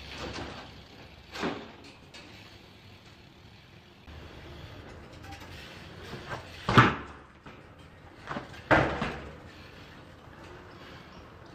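A handful of sharp knocks and thumps over a low steady hum: one about a second and a half in, the loudest pair around seven seconds in, and another pair shortly after.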